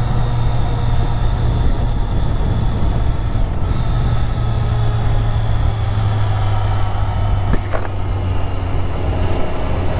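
Motorcycle cruising at a steady speed: a steady low engine drone under an even rushing noise.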